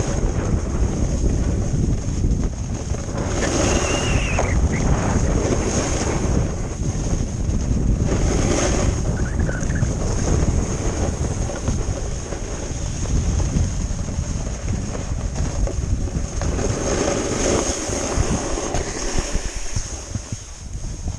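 Wind buffeting the microphone while riding a snowboard downhill. Now and then there is a louder swell of scraping as the board's edge carves over snow made icy by freezing rain.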